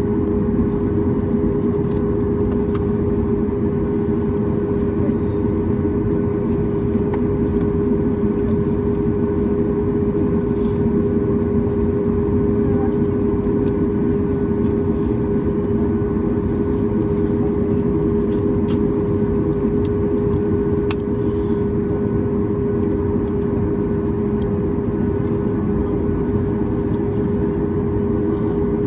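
Steady jet-engine hum and rushing cabin noise inside a Boeing 737 MAX 8, whose CFM LEAP-1B engines hold a constant tone with no spool-up or spool-down, and a few faint ticks in the cabin.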